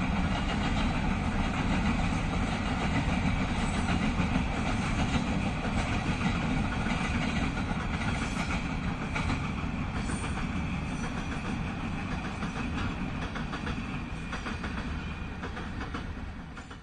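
A freight train of empty coal hopper wagons rolling across a steel-girder bridge: a steady rumble and wheel clatter that fades over the last few seconds as the end of the train moves away.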